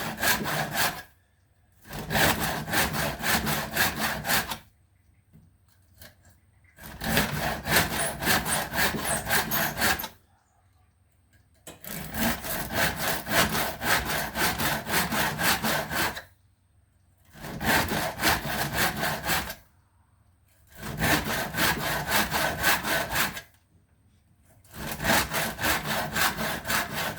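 Saw cutting acacia wood in quick back-and-forth strokes, in bouts of two to four seconds with short pauses between.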